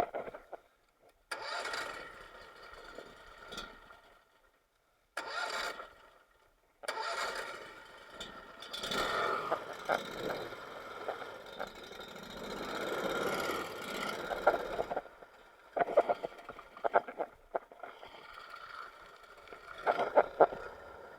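A small boat motor starting and running in several short stretches, broken by brief gaps, with sharp clicks near the end.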